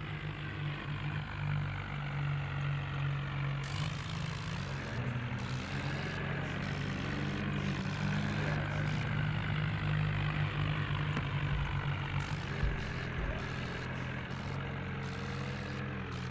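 Tractor diesel engine running steadily under load, its pitch rising and falling slightly now and then.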